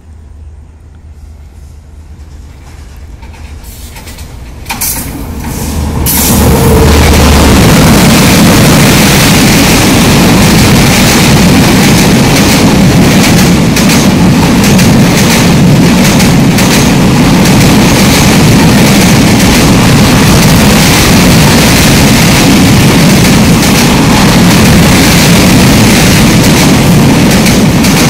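Passenger train approaching and crossing a steel girder bridge at close range: a quiet rising sound for the first few seconds, then, about five to six seconds in, it jumps to a very loud, steady noise of the carriages running over the bridge.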